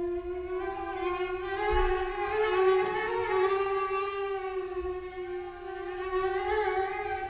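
Violin holding one long bowed note with a slight vibrato, swelling louder about two seconds in and easing off toward the end.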